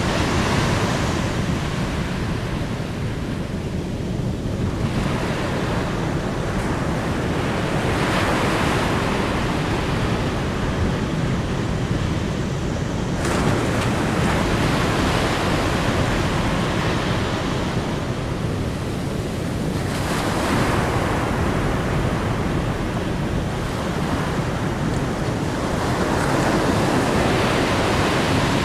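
Sea waves washing in, a steady rush of water that swells and fades again every five to seven seconds.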